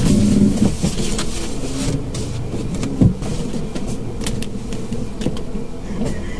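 Mitsubishi Mirage car running, heard from inside: a steady low engine and road rumble with a few sharp knocks and clicks, the loudest about three seconds in.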